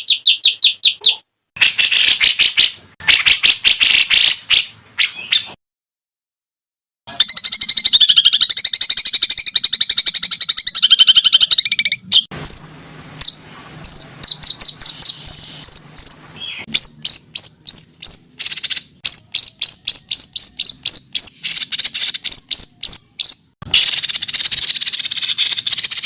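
Songbird recordings spliced together: rapid trills and fast runs of sharp, high repeated notes, changing abruptly at each cut, with a second or so of silence early on.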